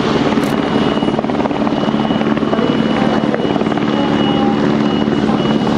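Helicopter running close by: a steady, loud rotor and turbine noise with a thin high whine held throughout.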